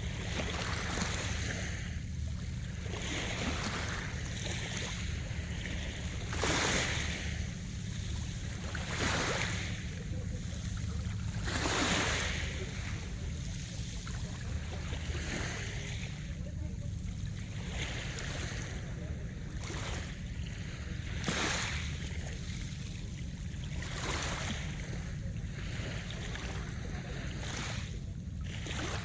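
Sea waves breaking and washing ashore in irregular surges every few seconds, over a steady low rumble.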